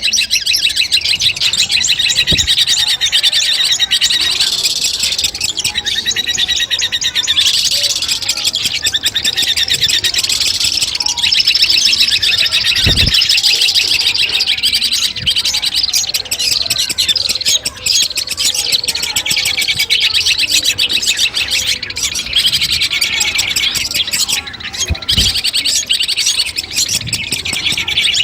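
Long-tailed shrike (cendet) singing a fast, continuous chattering song of rapid high notes, broken by a few brief dull thumps.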